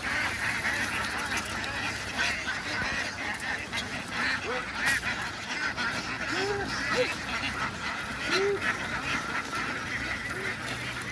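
A large flock of domestic ducks quacking, many calls overlapping into a constant din, with single nearer quacks standing out now and then.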